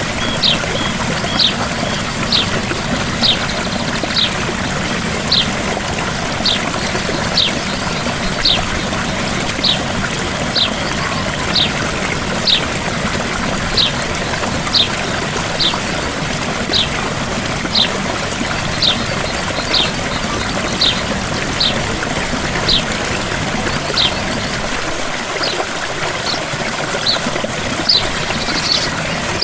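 Gentle waterfall with a steady rush of falling water. Over it, a bird repeats a short, high, falling chirp about once a second.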